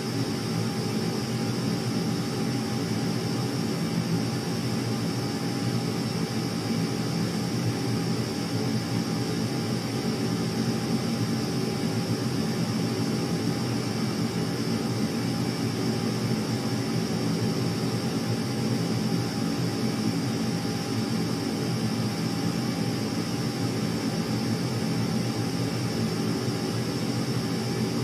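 Steady, unchanging drone of aircraft engine noise: an even rush with a few fixed tones running through it.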